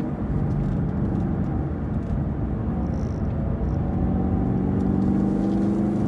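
Chevrolet Camaro SS 1LE's 6.2-litre V8 heard from inside the car on track: the engine note falls away at first, leaving a rumble of road and tyre noise, then rises steadily from about four seconds in as the car accelerates again.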